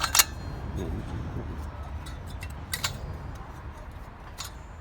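Hand tools clinking against the metal of a microwave magnetron as it is pried apart to free its magnet: three sharp clicks, one near the start, one near the middle and one near the end, over a low rumble.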